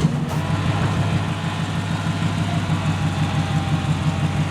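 Truck engine running steadily at idle, with an even low pulsing.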